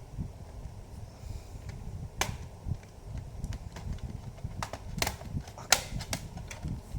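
Scattered sharp clicks and knocks of a laptop's plastic casing and small parts being handled and fitted back together during reassembly, most of them bunched a few seconds in, over a low rumble of handling noise.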